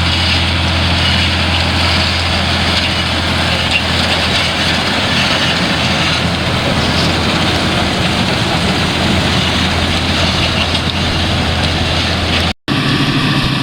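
John Deere tractor's diesel engine running steadily under a broad mechanical noise, with a strong low hum. It drops out for a moment near the end, then a different engine sound carries on.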